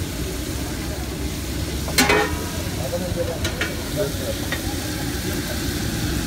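Beans frying on a large flat metal pan, with a steady sizzle. About two seconds in comes one sharp, ringing clank, the metal ladle striking the pan, followed by a few lighter taps.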